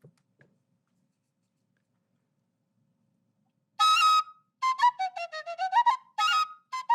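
Suling, an Indonesian bamboo flute, played in a bird-like phrase. After about four seconds of quiet, it plays a long high note, then a run of quick short notes that step down and climb back up, then another high note near the end.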